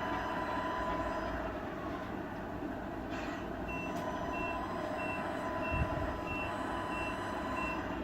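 Sound unit of a Tamiya radio-controlled truck playing a steady diesel engine sound, with a reversing beeper starting a little before halfway: about seven evenly spaced beeps, roughly one and a half a second. A short low thump comes during the beeping.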